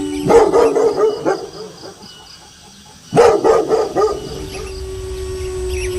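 Dog barking in two quick bursts, the first about a third of a second in and the second about three seconds in, with a long steady howl held through and after them.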